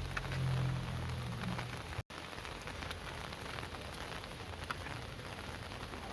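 Heavy rain falling steadily, with scattered sharp drop ticks. A low steady hum sits under it for the first two seconds, and the sound cuts out for an instant about two seconds in.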